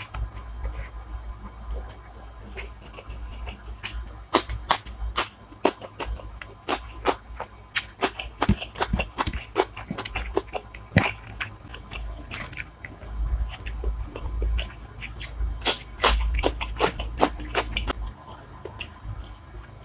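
Person eating biryani and fried hilsa fish close to the microphone: chewing with many sharp, irregular wet mouth clicks and smacks.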